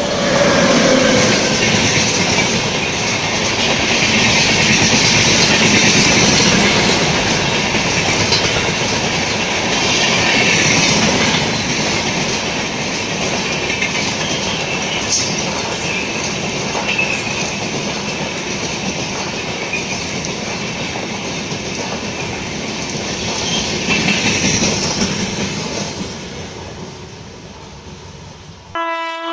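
A WAP-7 electric locomotive and its passenger coaches passing close by at speed: a steady rush of wheel and rail noise with occasional clacks, swelling a few times and fading as the train goes away near the end. The tail of a horn note dies away at the start, and another horn starts abruptly just at the end.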